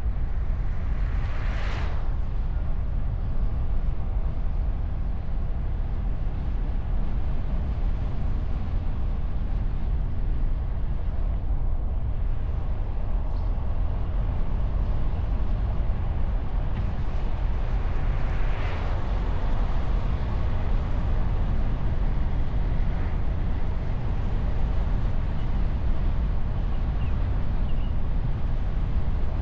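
Steady low wind and road rumble picked up by a hood-mounted camera on a moving car, with two brief whooshes, one near the start and one about two-thirds through.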